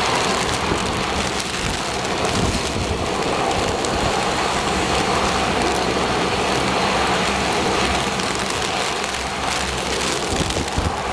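Heavy rain and gusting wind of an approaching typhoon, a steady dense hiss, with a faint steady low hum underneath.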